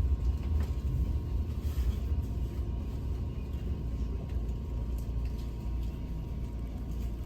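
Passenger train heard from inside the carriage while running: a steady low rumble with faint scattered clicks and rattles.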